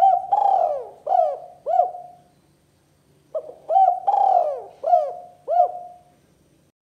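Spotted dove (tekukur) cooing: two repeated phrases, each a short note or two, one long coo, then two shorter coos.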